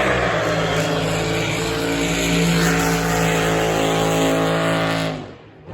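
Drag racing boat's engine at full throttle on a run, a loud steady note slowly falling in pitch. About five seconds in the engine is shut down and the sound cuts off abruptly.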